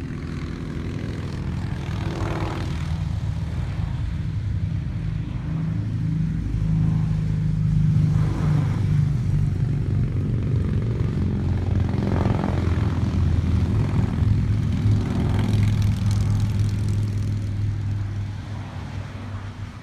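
A stream of motorcycles passing on a highway: a continuous low engine drone from many bikes, swelling as they go by, with a few brief revs, then fading near the end.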